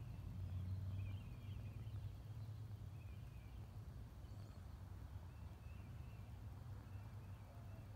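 Faint bird chirps now and then over a low, steady background rumble.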